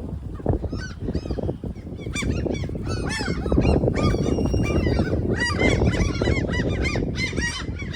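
Many short, harsh bird calls one after another, several birds at once, over strong wind rumbling on the microphone.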